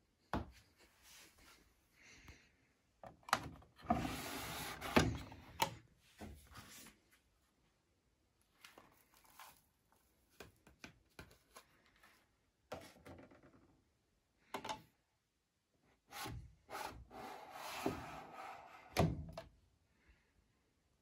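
Handling noises on a washing machine: a scattering of knocks and clicks, with two longer stretches of rubbing and scraping about three seconds in and again about sixteen seconds in.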